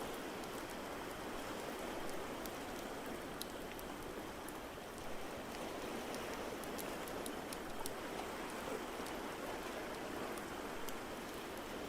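A steady wash of water noise, like rain or distant surf, with the scattered small sharp crackles of a wood fire over it.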